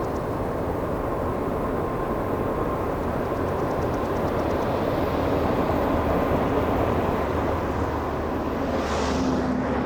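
Freight train cars rolling past, a steady rumble of steel wheels on the rails, with a brief high hiss about nine seconds in.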